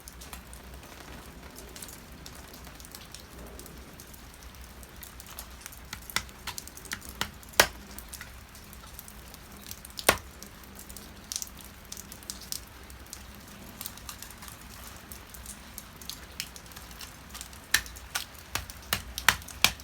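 Rain falling, with irregular sharp taps of drops striking a hard surface close by; a few taps are much louder, and they come faster near the end.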